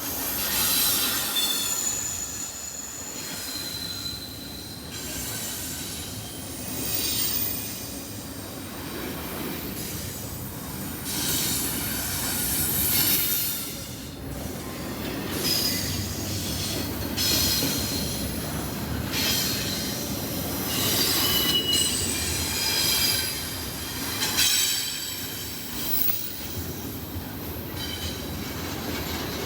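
A CSX freight train's cars rolling past, with steel wheels squealing on the rails over a steady rumble. The squeals come and go as high whines, often several pitches at once.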